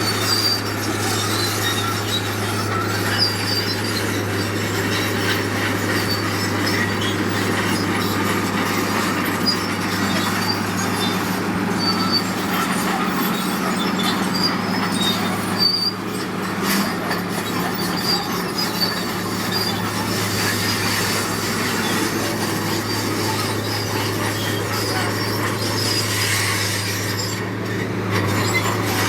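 Heavy earthmoving machinery working: a steady diesel engine hum with grinding noise and short, high metallic squeaks repeating throughout.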